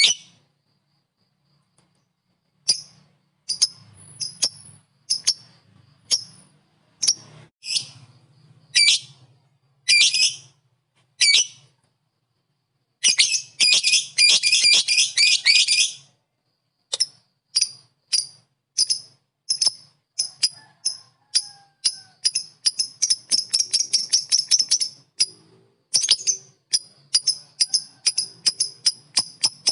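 Lovebird 'ngekek' chatter: shrill, sharp chirps, spaced apart at first, a dense burst of chatter about halfway through, then long rapid runs of calls several a second.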